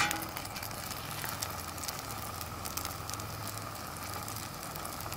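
Potato-cake batter sizzling and crackling in a mess-kit pot over a gas canister camp stove, with the burner's steady hiss and hum underneath.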